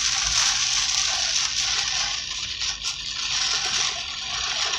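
Heavy rain beating on a car's roof and windshield, a steady hiss heard from inside the cabin.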